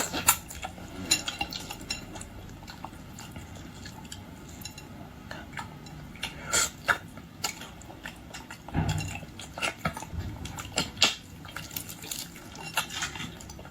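Close-up eating of a large red shrimp dipped in soy sauce: scattered clicks and clinks of utensils against dishes, with chewing and mouth sounds, heaviest a little past the middle.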